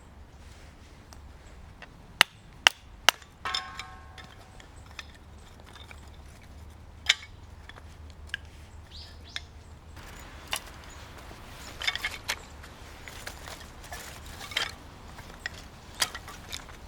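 Scattered sharp wooden knocks and snaps from handling firewood and camp gear, with a short metallic clink that rings briefly about three and a half seconds in.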